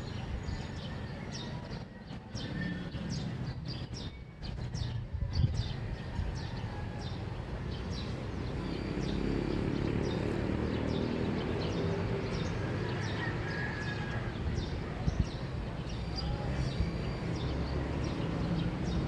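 Early-morning neighbourhood ambience: small birds chirping repeatedly over a steady low rumble.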